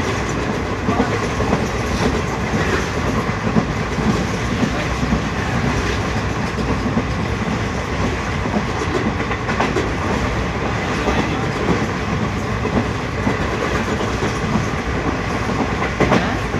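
A moving train running steadily: a constant rumble with faint, irregular clicks from the wheels on the track.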